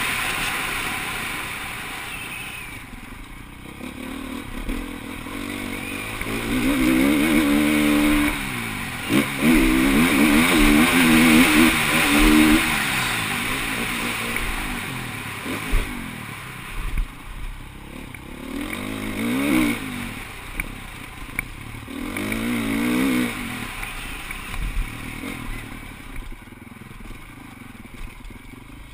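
Motocross bikes riding on a track, engines revving up and falling off again and again, with the loudest run of revs a third of the way in and further swells later.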